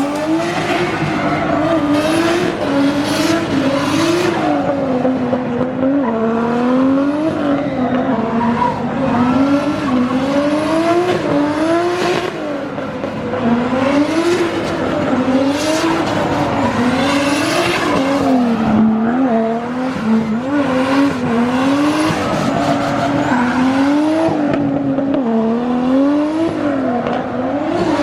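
Drift car engine revving hard and dropping back over and over, in a repeated rise-and-fall about every couple of seconds, with tyre squeal under it as the car slides.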